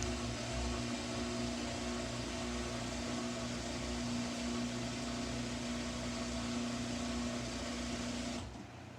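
Samsung front-loading washing machine running in its drain-and-spin stage, a steady hum and whine over a rushing noise. It cuts off suddenly about 8.5 seconds in, leaving a quieter low hum.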